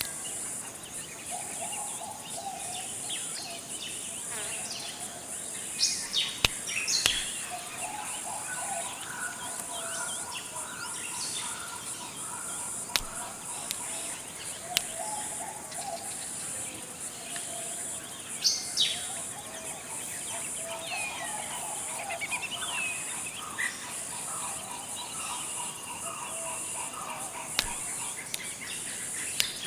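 Tropical forest ambience: a steady high-pitched insect drone runs throughout, with scattered bird calls over it. These include low warbling phrases that repeat and short bursts of sharp high chirps, and there are a few faint clicks.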